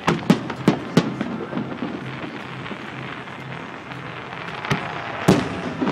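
Fireworks going off: four sharp bangs in quick succession in the first second, then two more near the end, over a continuous crackle.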